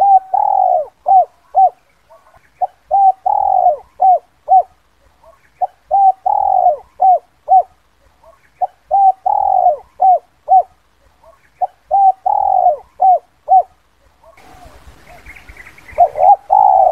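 Spotted dove cooing its 'kuk 2' call: phrases of a short note, a longer falling coo and two clipped closing notes, repeated about every three seconds. Near the end a background hiss comes in under a louder call.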